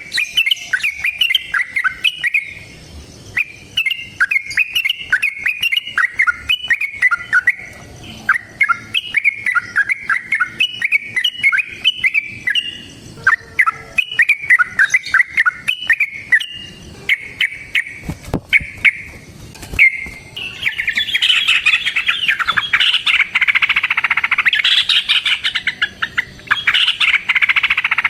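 Yellow-vented bulbul (trucukan) singing: short bubbly, warbling phrases with brief pauses, then from about twenty seconds in a dense, unbroken rapid chatter, the long 'ropel' fighting song used to provoke other bulbuls into answering.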